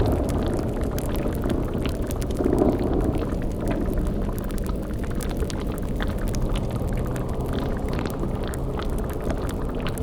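Layered spooky ambience: a bubbling, boiling cauldron effect over a steady low rumbling drone, with small crackles throughout and a brief swell about two and a half seconds in.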